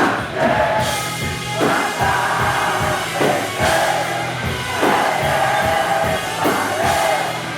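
Live band music, with a voice singing long held notes over steady drum hits.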